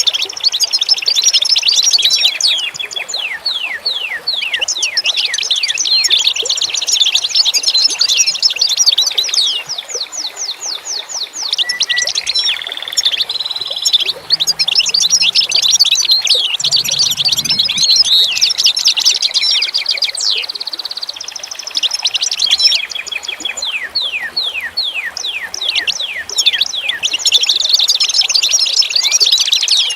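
A dense chorus of small songbirds chirping and twittering, with rapid, overlapping, high chirps that keep on without a break and thin out a little twice.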